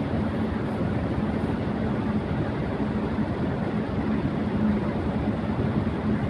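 Electric fan running at high speed: a steady rush of moving air with a low hum underneath.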